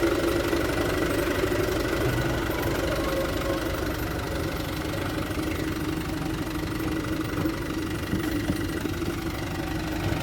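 Mitsubishi Canter dump truck's diesel engine running steadily at low revs.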